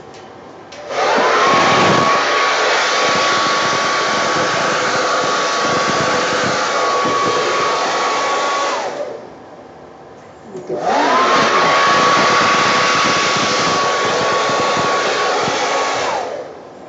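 Hair dryer switched on twice, each time for several seconds, blowing paint across the canvas in a Dutch pour. Its motor spins up to a steady whine over a rush of air, then winds down as it is switched off.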